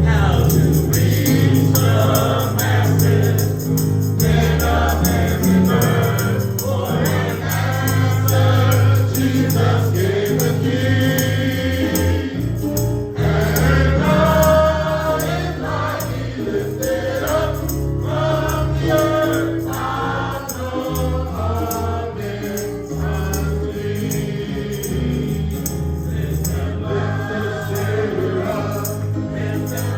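A church congregation singing a hymn together with instrumental accompaniment and a steady bass line.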